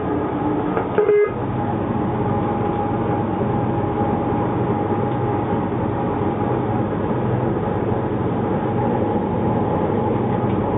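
DF11G diesel locomotive running, heard inside the cab as a steady drone. Two short tooting tones come right at the start and again about a second in.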